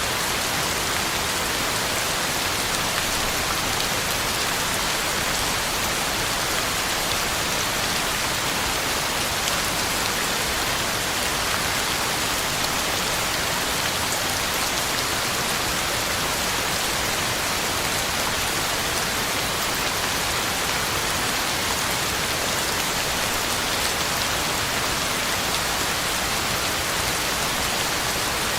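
Heavy rain falling steadily on the ground and leaves, a dense even hiss of drops that neither builds nor eases.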